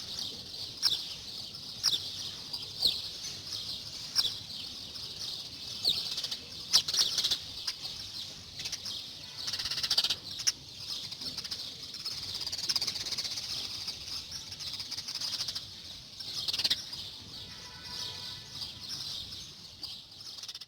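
Small birds chirping and twittering in a dense, overlapping chorus of short high-pitched notes, with sharper single chirps about once a second at first. It cuts off suddenly at the end.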